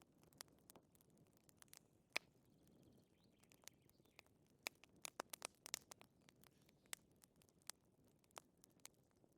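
Wood fire crackling quietly: irregular sharp pops and snaps over a faint hiss, the loudest pop about two seconds in and a quick cluster of pops between five and six seconds.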